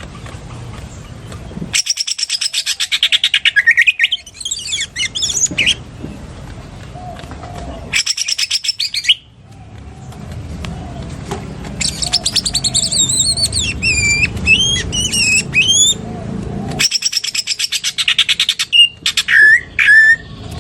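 Cucak ijo (green leafbird) singing a lovebird-imitation 'ngekek' song: bouts of very fast, high-pitched chattering trills, several seconds each, with short pauses between them. Sliding whistled notes are woven in during the later bouts.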